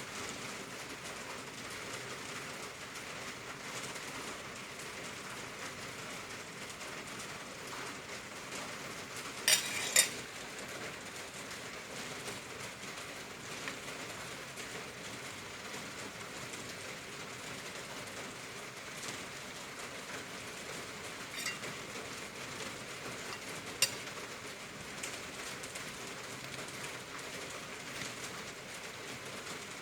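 Heavy rain falling steadily, an even hiss with no letup. A few sharp clicks cut through it: two loud ones close together about a third of the way in, and a couple of fainter ones later.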